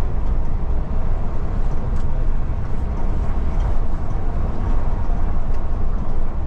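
Steady low rumble of a Scania Metrolink multi-axle coach heard from inside the cabin: engine and road noise, with a few faint ticks.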